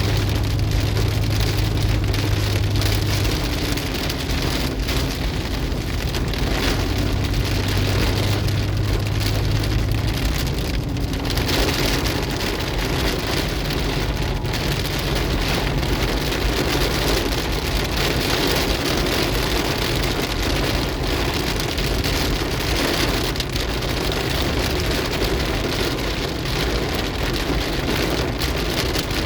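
Heavy cloudburst rain falling steadily on a car's roof and windscreen, heard from inside the car. A low steady hum sits under the rain during the first ten seconds or so.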